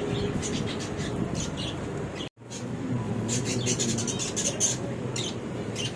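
Small birds chirping over and over in short high calls, over a steady background murmur; the sound cuts out for a moment about two seconds in.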